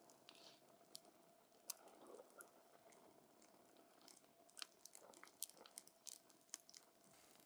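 Burning wood in a campfire crackling faintly: scattered sharp pops and snaps, coming more thickly in the second half, over a soft hiss.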